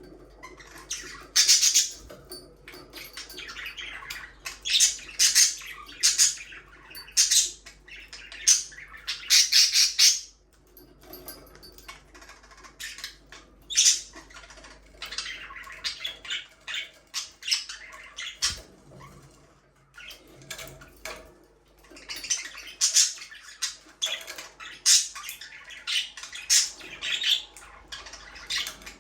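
Budgerigars chattering and squawking: rapid, high, scratchy chirps in bursts, with brief lulls between the bursts.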